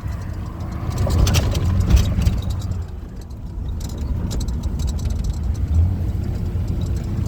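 Car driving along a town street, heard from inside the cabin: a steady low rumble of engine and road noise, with a few light knocks and rattles in the first couple of seconds.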